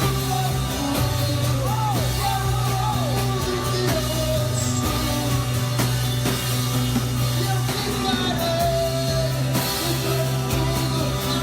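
Slow worship band music: held chords over a steady bass, with a gliding wordless melody line on top.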